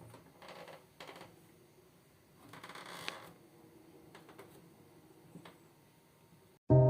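Faint handling noises: a few rustling bursts and light clicks, as of hands moving plastic parts and small components. Music with sustained keyboard notes starts abruptly near the end.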